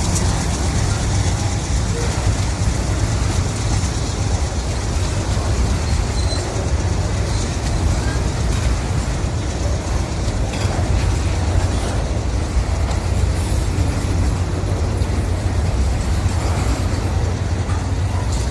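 Train running past with a loud, steady low rumble.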